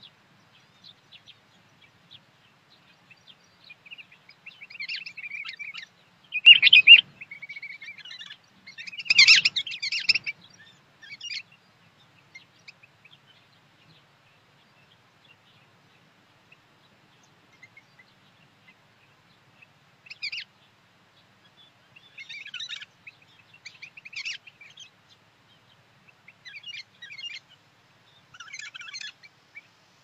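Small songbirds chirping and calling in short bursts. The loudest calls come about six and a half and nine seconds in, followed by scattered clusters of chirps in the last ten seconds.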